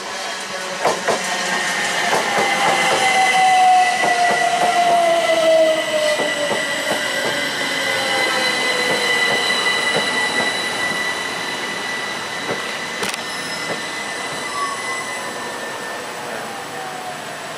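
A train running on the rails, its wheels giving a steady high-pitched squeal over a falling whine, with rapid clicks over the rail joints. It is loudest a few seconds in and then slowly fades as the train moves away.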